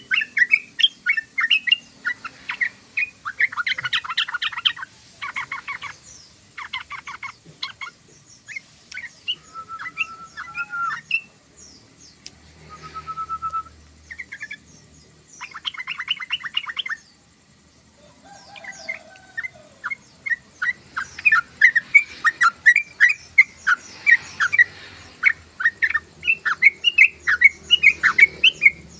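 Yellow-vented bulbul (trucukan) calling: quick chattering chirps broken by several short rattling trills and a few brief whistled notes. Near two-thirds of the way through it pauses briefly, then the fast chirping resumes, denser than before.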